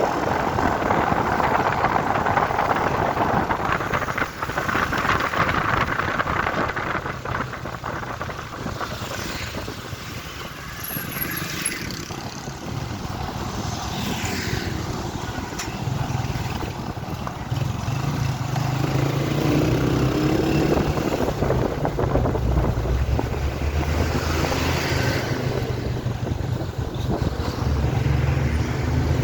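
Truck engines running with road and traffic noise; about halfway through, a deep, steady engine drone comes in and holds.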